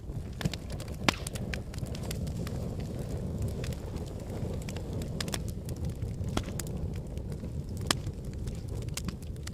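Wood fire burning in a fireplace: a steady low rumble of flames with irregular sharp crackles and pops from the logs, the loudest pops about a second in and near the end.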